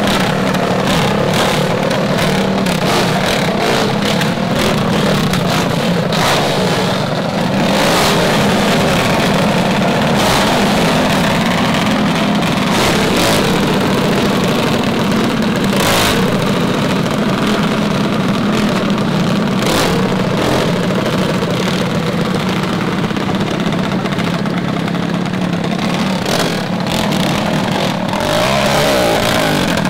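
Mini bike's small single-cylinder engine running steadily at speed, with many short sharp clicks or knocks throughout. The engine pitch dips and rises again near the end.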